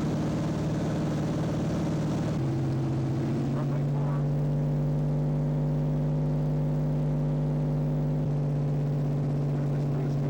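Light aircraft's piston engine and propeller droning steadily; about two and a half seconds in the engine note drops slightly and settles.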